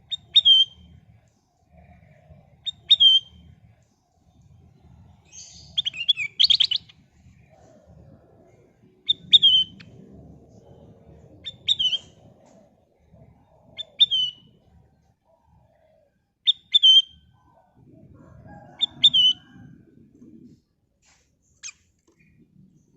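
Kutilang emas (a bulbul) singing: short, clear chirping phrases repeated about every two and a half seconds, with one longer, louder trilled phrase about six seconds in.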